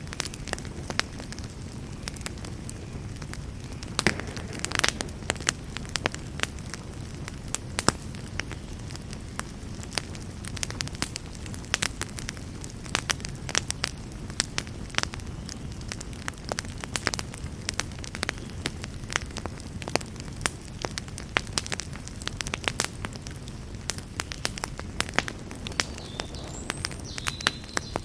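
Campfire crackling: burning wood giving frequent, irregular sharp pops and snaps over a steady low rumble of the flames.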